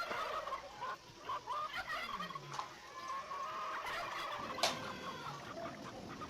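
Birds calling in a wavering, irregular chatter, with one sharp click about four and a half seconds in.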